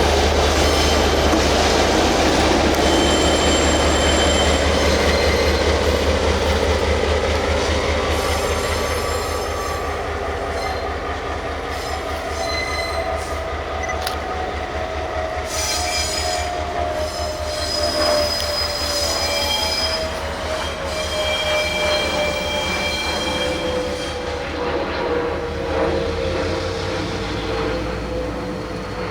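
A locomotive moving slowly on depot track, with a heavy rumble and high metallic wheel squeals that come and go. A whine glides steadily downward in pitch as it slows, and the noise gradually fades.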